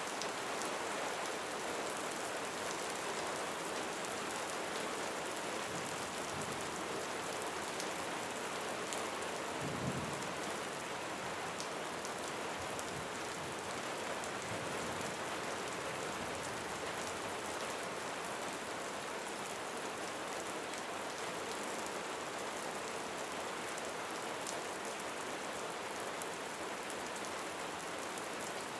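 Steady rain falling on a roof, an even patter throughout. About a third of the way in there is one brief, low rumble of faint thunder.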